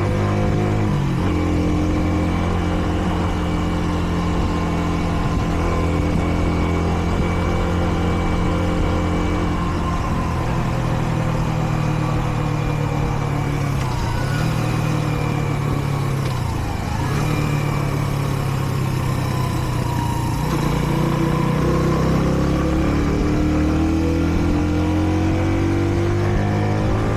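Kreidler Dice CR 125's small single-cylinder engine running under way with wind rush over the bike, its note steady for a while, dipping about two-thirds of the way through, then climbing again near the end as the bike accelerates. The bike is in its running-in period and ridden at moderate revs.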